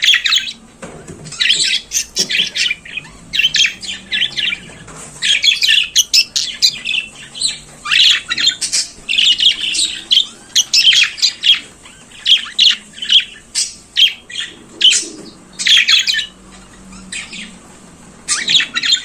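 Budgerigar singing: a fast, busy run of chirps, squawks and warbling chatter in short bursts, with brief pauses.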